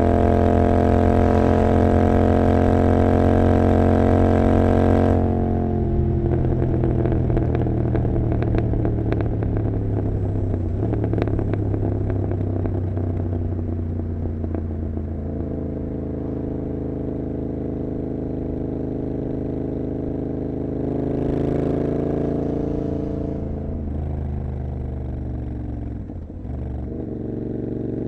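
Royal Enfield Continental GT 650's parallel-twin engine through an Emgo cafe muffler, pulling steadily at first. About five seconds in the throttle closes and the exhaust crackles on the overrun as the bike slows. It then settles into a lower, steady cruising note, with a brief dip in level near the end.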